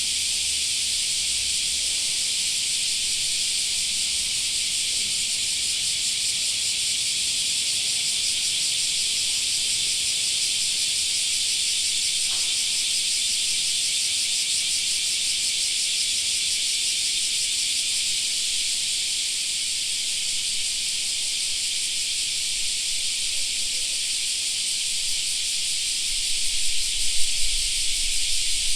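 Chorus of cicadas singing in summer trees: a loud, steady, high-pitched shrilling that does not let up. A brief low rumble comes near the end.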